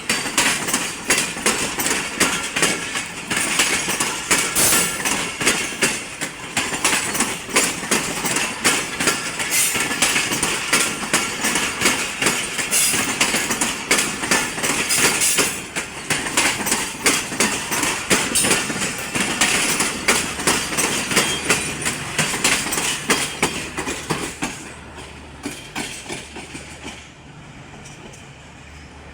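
Train passing at close range, its wheels clattering rapidly over rail joints, then fading as it moves away in the last few seconds.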